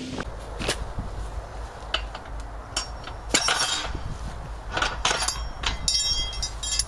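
Irregular metallic clinks and knocks of narrowboat mooring gear being handled during unmooring, some single and some in quick clusters, with brief ringing, over a steady low rumble.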